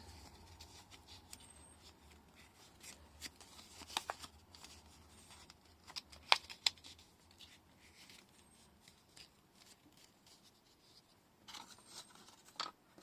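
Paper being handled and worked at a craft table: soft rustling with scattered sharp clicks and taps, a few louder snaps about four and six seconds in.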